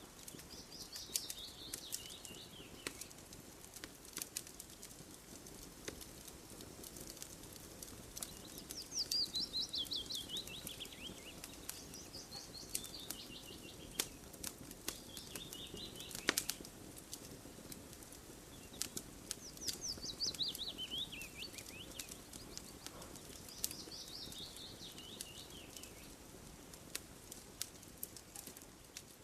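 A campfire crackling with scattered sharp pops and snaps. A bird calls several times over it, each call a quick run of high notes falling in pitch over about two seconds.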